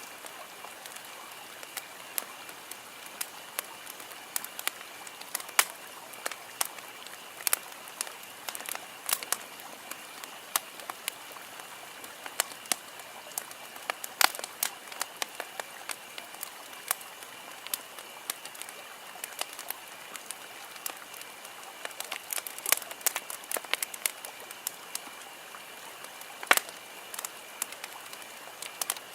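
Wood campfire crackling: irregular sharp pops and snaps over a steady hiss, with one louder snap near the end.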